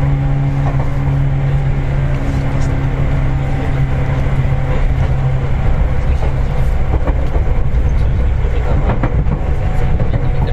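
Running sound inside a Seibu 4000 series resistance-controlled electric train car: wheels rumbling on the rails with a steady low hum that fades about four seconds in, and sharp clicks from the track growing more frequent near the end.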